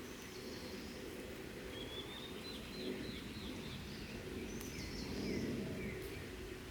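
Wild songbirds calling: a quick run of short high chirps in the middle, with a few lower slurred notes and higher buzzy notes, over steady low background noise.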